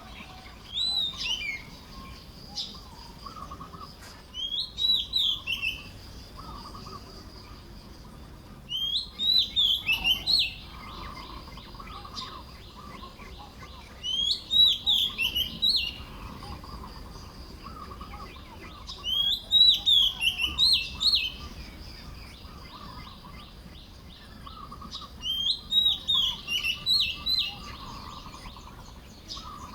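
Baya weavers singing while nest-building: about every five seconds, six times, a short burst of rapid chattering chirps, over fainter chatter and a faint steady high tone.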